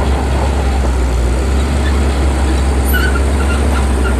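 Heavy diesel engine of earthmoving machinery running steadily under load, a deep constant drone with mechanical clatter over it.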